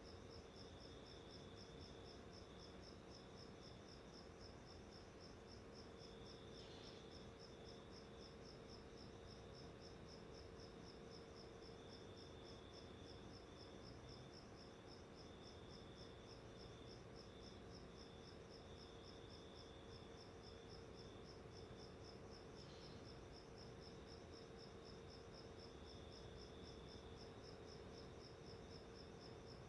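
Near silence with a faint, steady, fast even chirping like a cricket's and a low steady hum underneath.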